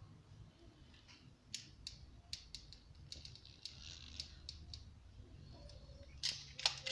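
Scattered light clicks and taps at an irregular pace, about a dozen, from hands handling boiler parts and a silicone gun, with a faint steady low hum underneath.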